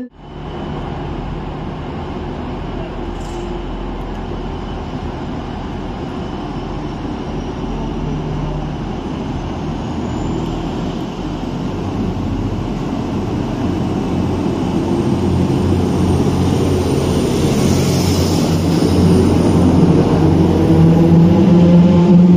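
Train engine running, growing steadily louder through the second half, with a faint high whine that rises in pitch about halfway through.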